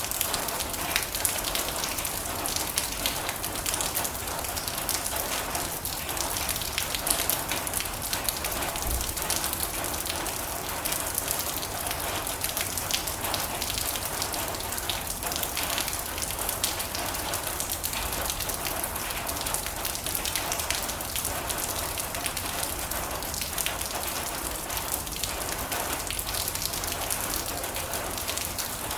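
Steady heavy rain drumming on a metal roof, a dense patter of fine drop impacts.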